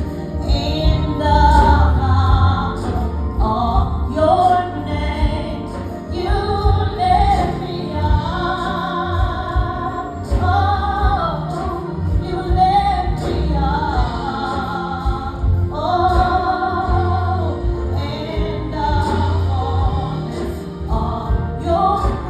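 Gospel song being sung, long wavering sung notes with vibrato over an accompaniment with a steady deep bass.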